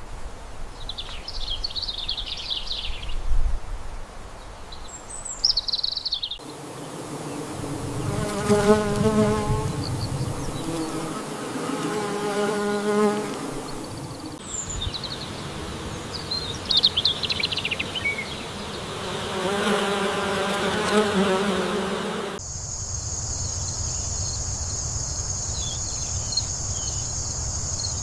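Countryside ambience: small birds chirping, then insects buzzing with a wavering drone that swells three times, then a steady high-pitched insect drone from about two-thirds of the way in.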